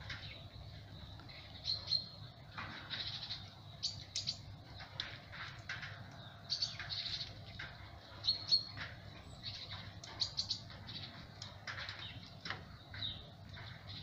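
Birds chirping: many short, sharp calls in quick irregular succession, over a low steady hum.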